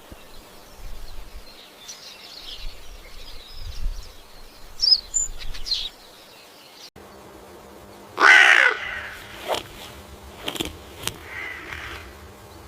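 Birds calling outdoors: faint scattered chirps, then one loud, harsh, caw-like call about eight seconds in, followed by a few shorter calls.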